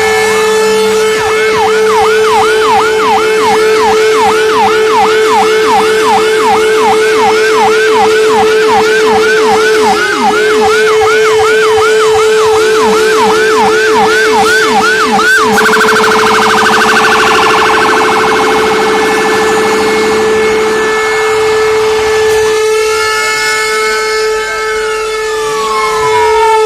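Fire engine sirens sounding together: a fast yelp rising about three times a second until about halfway through, then slower wailing sweeps, over a steady held tone.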